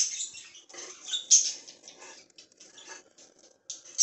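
Budgerigars chirping and squeaking in short, irregular high-pitched bursts, the loudest about a second and a half in.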